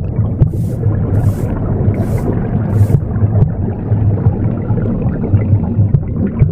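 A steady low whooshing rumble of womb sound, under four hissy broom sweeps about 0.7 seconds apart in the first three seconds, after which the sweeping stops.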